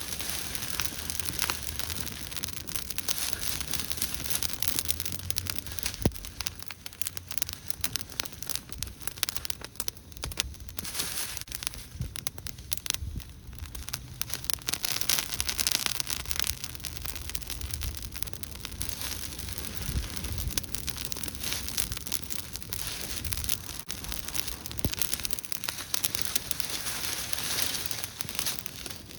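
Wood campfire burning with a steady hiss and many small, irregular crackles and pops, over a low rumble.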